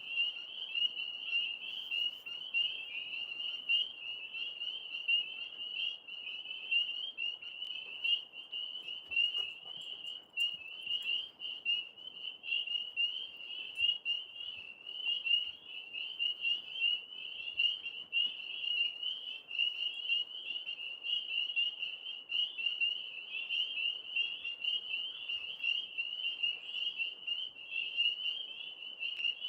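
Chorus of tree frogs calling from a tree: many high-pitched trills overlapping into one continuous, pulsing sound.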